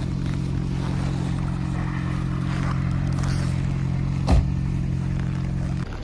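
Lada Priora's four-cylinder engine idling steadily through an aftermarket exhaust, with a single sharp knock about four seconds in. The engine sound cuts off suddenly shortly before the end.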